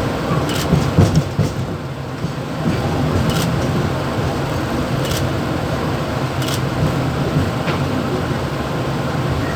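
Mumbai suburban EMU train under way, heard from the driver's cab: a steady low rumble of the running train, with a few short sharp clicks and rattles over it.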